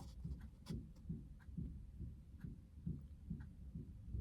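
Faint background noise: soft low thuds repeating about three times a second, with faint ticks above them.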